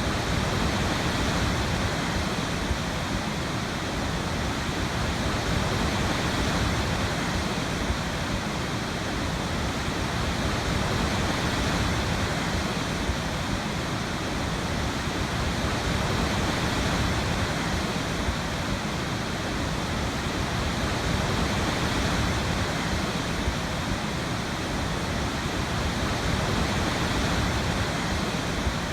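Waterfall: a steady rush of falling water, even and unbroken, with slow small swells.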